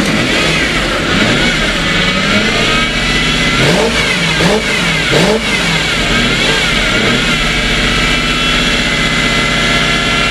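1995 Lexus SC400's 4.0-litre V8 running just after starting, revved up and down by hand with three quick blips in the middle, then held at a steadier fast speed. It won't yet idle on its own, having sat dead for a long time.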